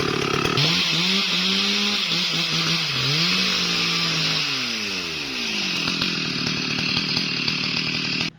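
STIHL MS 382 two-stroke chainsaw cutting wood, its engine pitch dipping and rising repeatedly as the chain loads up and frees. The sound cuts off abruptly near the end.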